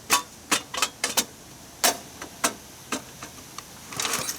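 Sharp, irregular clicks and taps of tools and small parts being handled during work on a lawn mower's recoil starter. They come singly for the first three seconds, then several close together near the end.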